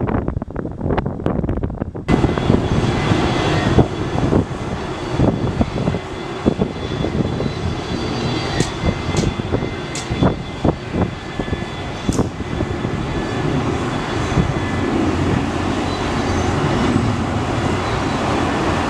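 Jet airliner engines running: a loud, steady roar with a faint high whine over it. Before that, for about the first two seconds, wind buffets the microphone.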